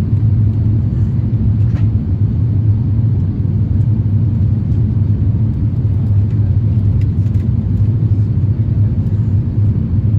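Steady low rumble of an Airbus A350-1000 as heard from inside the cabin, with a few faint clicks.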